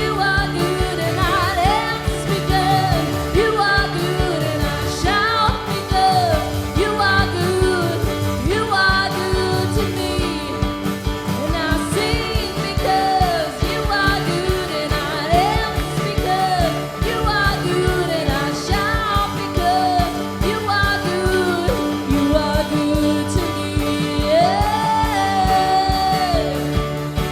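Live praise and worship music: a band holds steady sustained chords while a voice sings long, gliding melodic lines over them.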